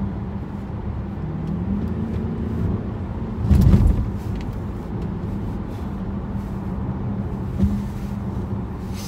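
Cabin sound of a 2011 Dodge Charger R/T's 5.7-litre Hemi V8 cruising, a steady low hum over road noise, with the engine pitch rising slightly a second or two in. A short thump comes about three and a half seconds in.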